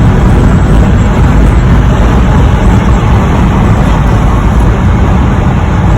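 Steady wind and road noise inside a 2021 Honda HR-V's cabin at about 60–65 mph with the driver's side window open, carrying the whistle that the owner takes for a design flaw.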